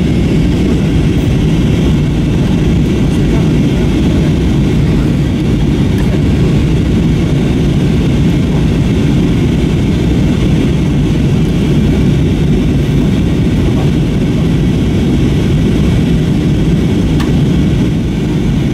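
Steady low cabin noise of an Airbus A321-232 airliner in flight: engine and airflow noise heard inside the passenger cabin, unchanging throughout.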